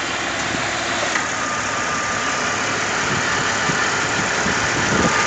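2001 Jeep Cherokee's 4.0-litre straight-six idling steadily, heard up close in the open engine bay. A thin steady whine sits above it from about a second in.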